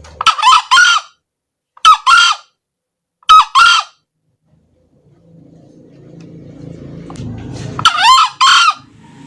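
Male green junglefowl crowing: four short, loud calls of two or three quick notes each, three in the first four seconds and one near the end. A low rumble swells underneath in the second half.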